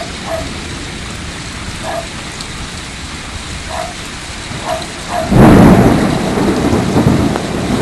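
Heavy rain pouring down steadily; about five seconds in, a loud rumble of thunder breaks in and keeps rolling.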